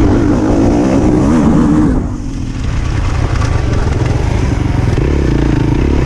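Small high-revving motor, its pitch rising and falling quickly, then cutting back sharply about two seconds in and running on lower and steadier.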